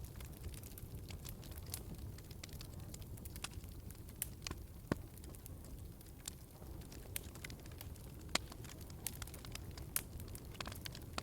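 Wood fire in a fireplace crackling: a steady low rumble of burning with many scattered sharp pops, a few louder ones about five, eight and ten seconds in.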